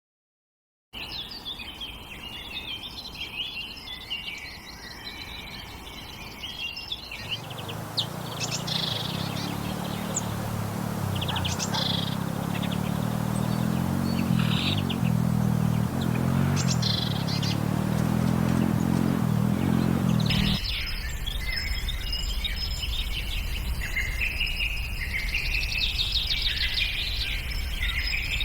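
Wild birds singing and chirping, dense and continuous. For a long stretch in the middle a louder, steady low rushing noise joins in and the chirps thin out; it stops abruptly and the busy birdsong resumes.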